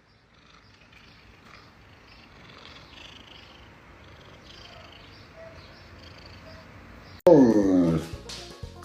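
Faint background noise, then about seven seconds in a cat lets out one loud yowl that slides down in pitch and lasts under a second.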